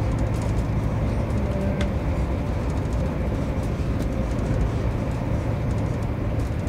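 Steady rumble of a locomotive-hauled Mark 3 passenger coach running at speed, wheels on rails, heard inside the saloon, with a faint steady hum and an occasional faint click.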